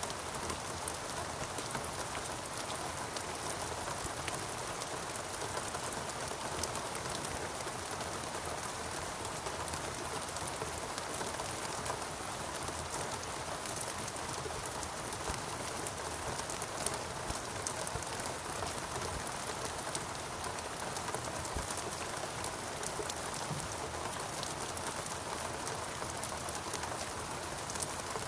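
Steady rain falling, an even hiss dotted with countless individual drops ticking, unchanging throughout.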